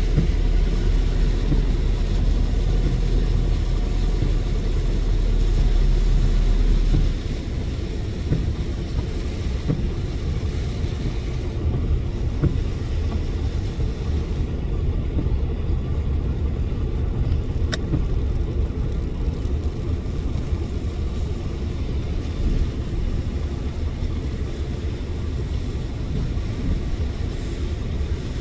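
Car on the move: steady road and engine rumble with a hiss of tyre noise. A heavier low rumble stops about seven seconds in and the sound eases a little.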